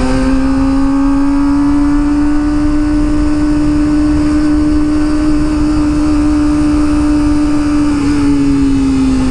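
Kawasaki ZX25R's 249 cc inline-four engine through an Akrapovic exhaust, running steadily under way. It climbs a little in pitch at first, holds an even note, then eases down near the end as the throttle comes off.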